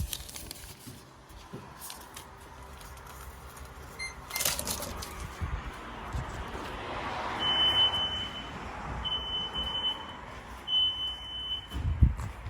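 Three long, high electronic beeps, each about a second, from a car wash, over a rushing noise that swells midway, with a sharp thump near the end.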